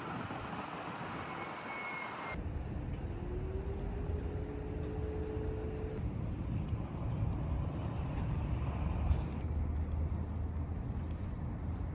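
Street ambience with motor traffic: a steady low rumble of vehicles comes in abruptly about two seconds in, with a faint engine hum from a passing vehicle for a few seconds after.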